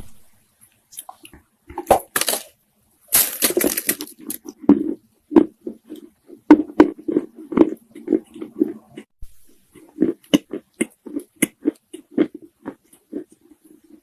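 Dry Chinese loess clay being bitten and chewed, soft crunching. A couple of crisp snaps and a short burst of crumbling come first, then steady chewing takes over.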